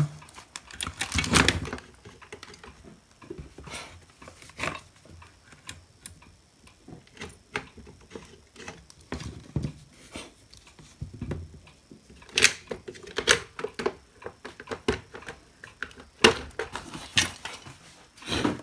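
Irregular clicks and knocks of hands handling a hot air rework station, its handpiece and wires on a workbench, with a few louder knocks about twelve and sixteen seconds in.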